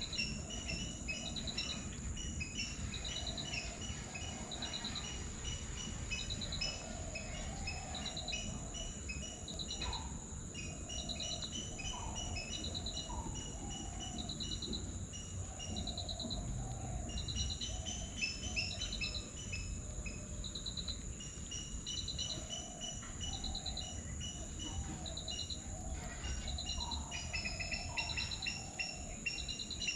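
Outdoor ambience of insects and birds: a steady high-pitched insect drone, with a short pulsed chirp repeating about every second and a half. Rapid bird chirps and lower warbling calls come and go over it.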